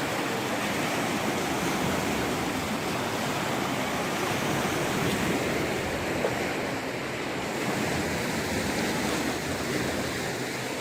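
Steady rushing of flowing floodwater, an even noise without a break.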